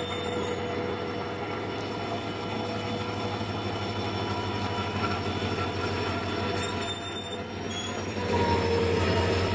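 An Indian Railways diesel locomotive and its train roll slowly past as the train departs, the engine running steadily, with wheels squealing on the rails. Near the end a louder squeal swells up.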